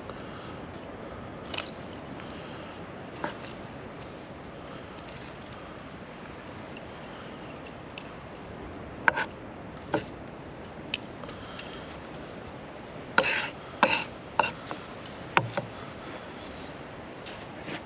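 Scattered sharp clinks, knocks and scrapes of camp cooking gear such as utensils and pots, over a steady background noise. A quick run of several knocks comes about two-thirds of the way through.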